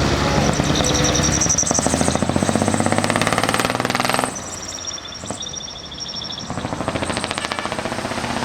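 Loud vehicle engines and exhausts driving past, with a rapid pulsing exhaust beat. The sound drops away about four seconds in and swells again as the next vehicle comes up, with thin high whistling tones over it.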